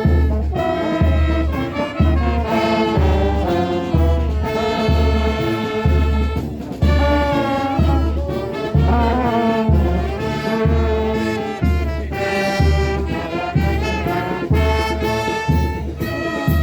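Brass band playing a march-like tune, with a low drum beating steadily about once a second under the horns.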